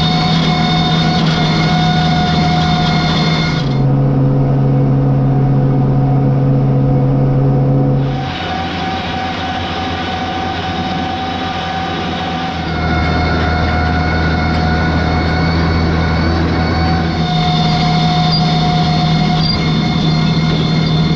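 Farm tractor's diesel engine running steadily while cutting a standing crop. The drone changes pitch abruptly several times.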